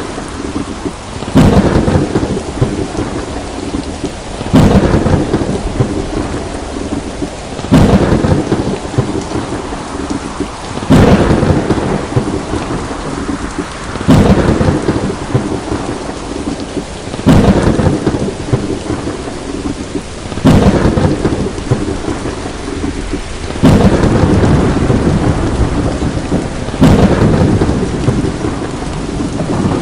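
Thunderstorm: steady heavy rain with a sharp thunder crack about every three seconds, each fading into a low rumble before the next, at very even spacing.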